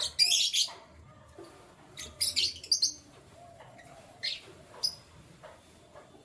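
Canaries chirping in short, high-pitched bursts: a loud burst at the start, another about two seconds in, then a couple of single chirps.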